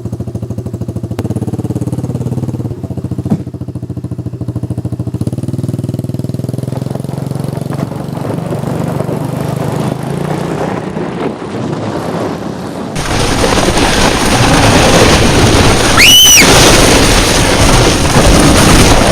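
Pit bike engine running with a steady fast pulse, then from about thirteen seconds in a much louder rushing noise swamps it as the tow gets under way. Near the end there is a short tone that rises and falls.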